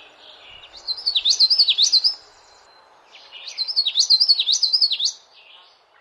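A songbird singing two phrases, the first about a second in and the second about three seconds in, each a quick run of high, clear notes that swoop downward, over a steady background hiss.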